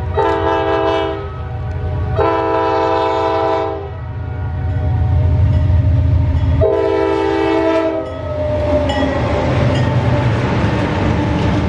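Heavy diesel-electric freight locomotives passing and sounding the horn in three blasts, the last one followed by a tone that slides lower, over the constant deep rumble of engines and wheels.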